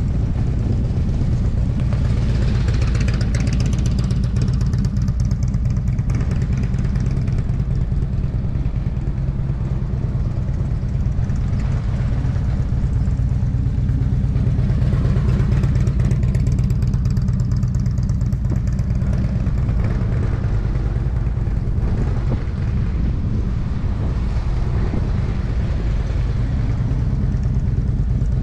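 Motorcycle engine running steadily, its sound swelling and fading every few seconds.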